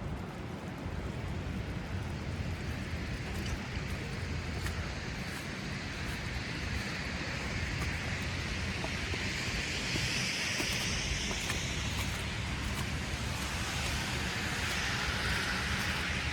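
City street traffic on a snowy morning: a steady low rumble of motor traffic, with a passing car's tyres hissing on the snow-covered road, building through the second half and loudest near the end.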